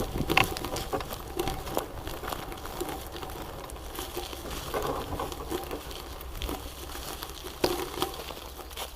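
Irregular rustling and crackling with many small sharp clicks, like dry leaves and twigs being crushed along a forest path.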